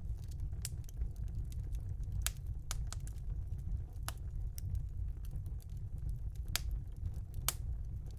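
Wood fire burning in a house fireplace, crackling with irregular sharp pops over a low steady rumble of the flames; a few louder pops stand out, two of them near the end.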